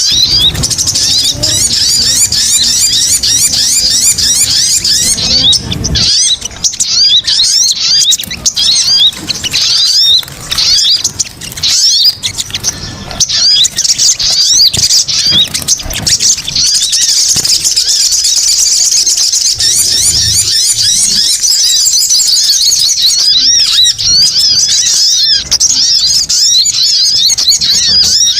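Small songbird's calls used as a bird-trapping lure: a dense, unbroken stream of rapid high-pitched chirps and trills.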